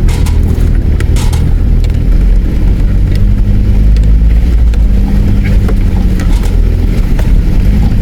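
Four-wheel-drive vehicle's engine pulling at low speed up a rocky step, with scattered knocks and clicks.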